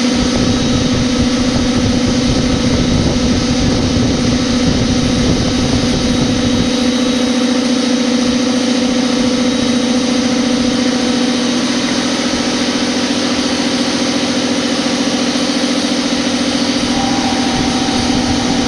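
CNC milling machine running, a steady hum with a fainter high whine over it.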